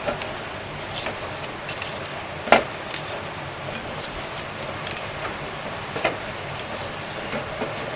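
Irregular clicks and knocks of cooking utensils against cookware, about one a second, with one sharper knock about two and a half seconds in. Underneath, the steady rush of a mountain stream.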